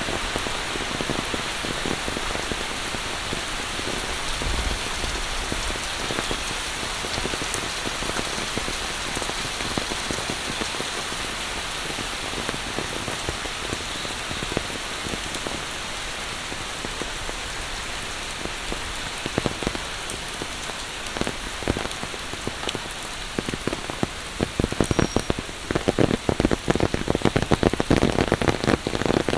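Steady monsoon rain falling, a dense hiss of drops hitting surfaces. In the last few seconds, heavier drop impacts come in close and the sound grows louder.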